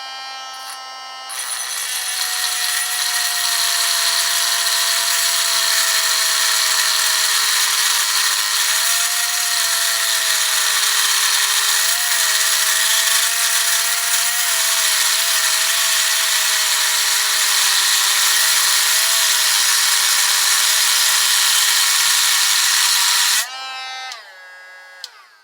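A drill spinning an abrasive cutting wheel: it runs free with a steady whine, then from about a second in grinds loudly into a Master padlock's metal for over twenty seconds, the motor's pitch sagging and wavering under load. Near the end the wheel comes off the lock and the drill winds down to a stop.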